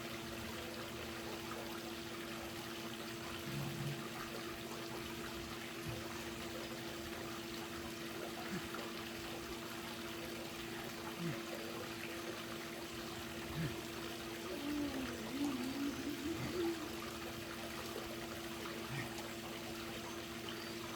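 Steady trickling and pouring of pool water over a constant low hum, with a few soft knocks and a brief wavering tone about two thirds of the way through.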